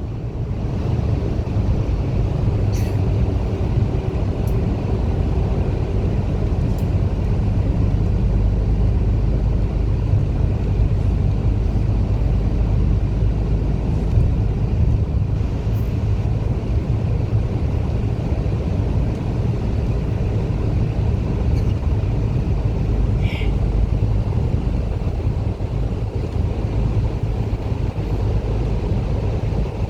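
Cabin noise of a moving diesel bus: a steady low engine drone with road and tyre rumble. A brief high squeak about three-quarters of the way through.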